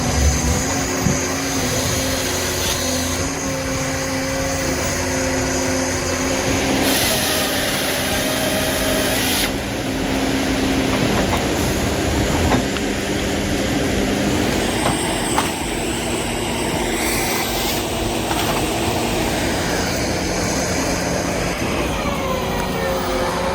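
Forestry harvester working: a steady diesel-engine and hydraulic drone. About seven seconds in, a brighter hissing sound lasts for a couple of seconds.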